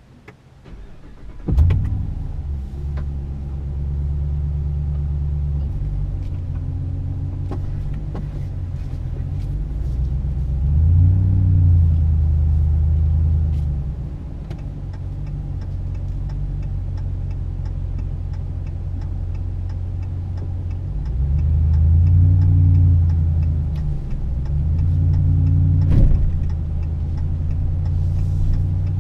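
Ram 2500's 6.4 Hemi V8 starting from inside the cab about a second and a half in, then running with a low exhaust drone through a Magnaflow 19200 cat-back. The engine note rises and falls twice, about a third of the way in and again past two-thirds.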